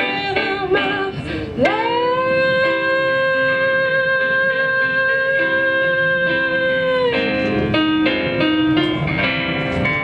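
A woman singing with plucked guitar. About a second and a half in she slides up into one long held note lasting about five seconds, then the guitar picking carries on alone.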